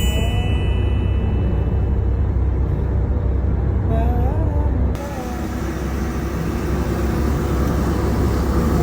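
Steady low rumble of a moving truck's engine and road noise, with faint voices in the background. The sound shifts abruptly about five seconds in.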